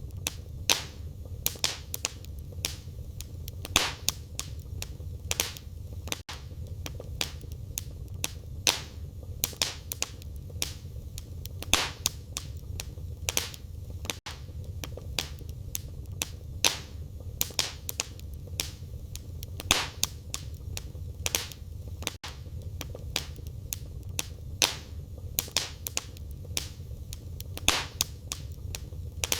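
Wood fire in a fireplace crackling, with irregular sharp pops and snaps every fraction of a second over a steady low rumble of the burning.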